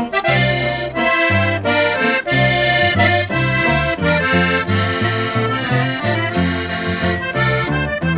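Norteño music instrumental break: an accordion playing the melody over a bass line pulsing in a steady, even rhythm.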